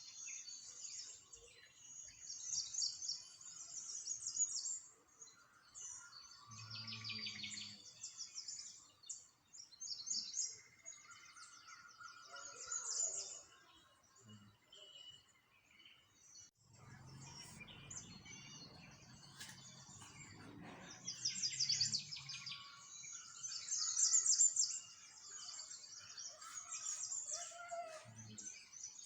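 Small songbirds chirping and twittering in quick, high trills, several overlapping, with a low rumble underneath for a few seconds midway.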